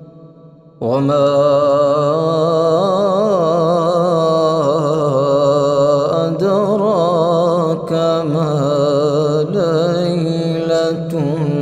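A man's voice chanting Quran recitation (tajweed), drawing out long melodic held notes with wavering ornaments. It begins about a second in, after a fading echo.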